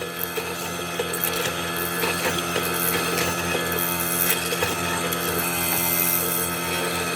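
Electric power tool running steadily with a fast rattling and clicking, gradually getting louder.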